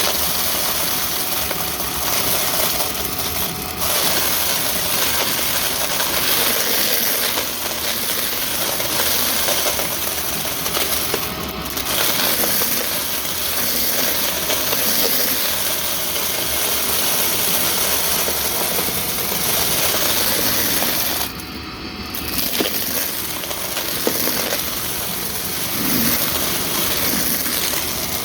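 Vacuum cleaner running with its brushroll spinning while the vacuum is clogged: a loud, steady rushing hiss that briefly drops a few times.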